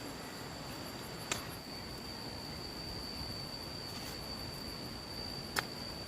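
Insects droning with one steady, high, unbroken tone over faint background hiss. Two sharp clicks come through, about a second in and again near the end.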